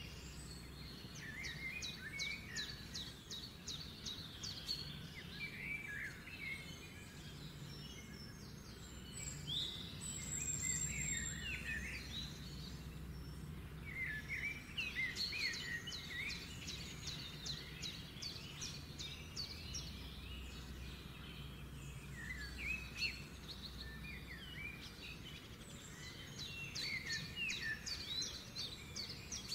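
Small birds chirping and trilling in bouts every few seconds, with rapid high trills and short lower chirps, over a faint low steady hum.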